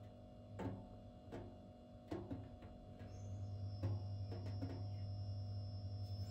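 Low steady hum with a few faint, scattered light taps and clicks, in a pause between sharpening strokes on the whetstone.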